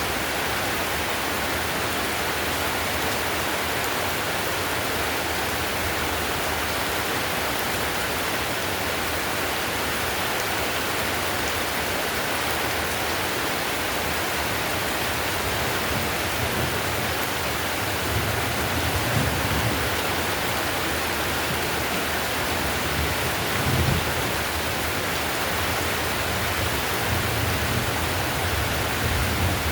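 Heavy rain falling steadily on clay roof tiles, an even hiss. A few low rumbles swell up in the second half.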